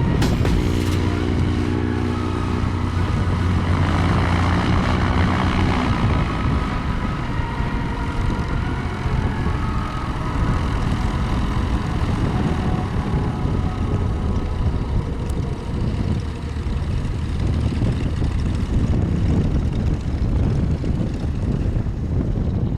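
Cessna 337 Super Skymaster's twin piston engines running with propeller noise, loud and steady. The first few seconds carry a clear pitched engine note, which then gives way to a denser, even drone.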